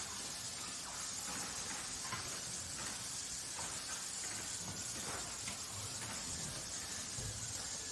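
Factory ambience: a steady, high hiss with faint, scattered knocks and clinks from machinery and handling.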